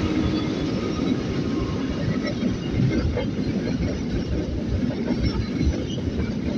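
A train passing close by: a steady rumble and rattle of wheels and carriages on the rails, with the last of its horn fading out at the very start.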